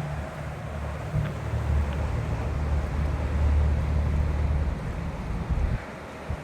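Wind buffeting the microphone: an uneven low rumble that swells and fades in gusts and drops away near the end.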